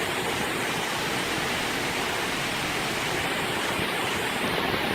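Fast floodwater rushing in a torrent, a steady, even noise.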